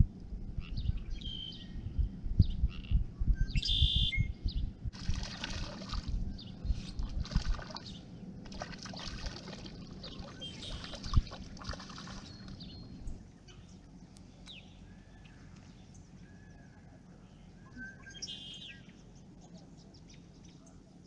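Water splashing and trickling with rustling handling noise for about the first dozen seconds, then a quieter lakeside background. Small birds chirp now and then throughout.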